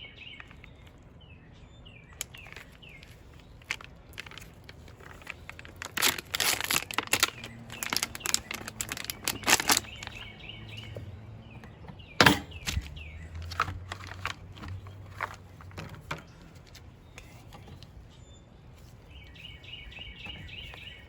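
Crinkling and crackling of the plastic tray of a hot pepper suet cake as it is unwrapped and handled, busiest from about six to ten seconds in, with one sharp knock a little after twelve seconds. Birds chirp now and then.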